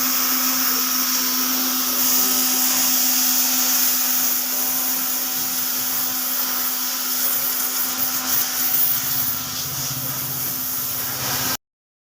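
Electric pressure washer running: a steady motor hum under the hiss of the water spray, stopping abruptly near the end.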